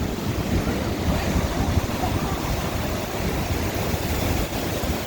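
Lake Michigan waves breaking on the shore in a strong north wind, with gusts rumbling on the microphone.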